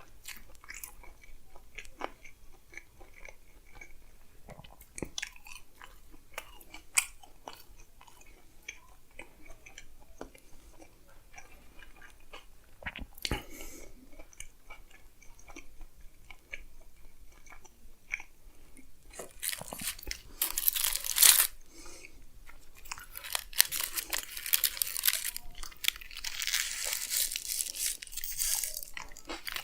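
Close-miked chewing and biting into a chicken frankie, a flatbread roll of spiced chicken, with many small wet mouth clicks. From about two-thirds of the way in, a louder crinkling rustle, like the paper wrapper being handled, comes and goes over the chewing.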